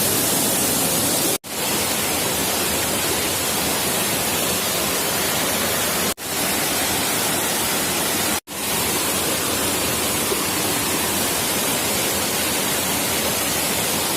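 Steady rush of fast-flowing stream water, an even hiss with no pitch, cut off for a split second three times.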